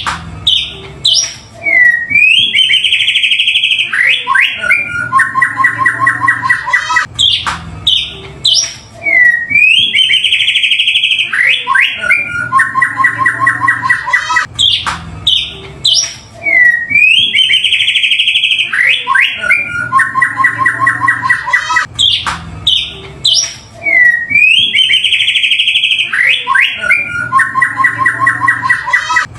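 White-rumped shama (murai batu) song: fast chattering trills, sharp whistled glides and a harsh buzzy burst. The same phrase loops about every 7 seconds, four times over, as a repeated lure track meant to provoke a caged shama into singing.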